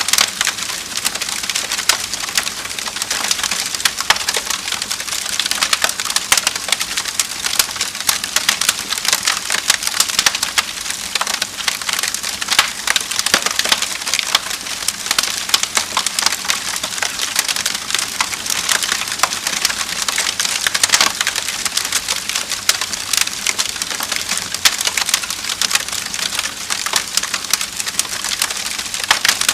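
Wood fire crackling in a fireplace: a steady stream of sharp pops and snaps over a soft hiss.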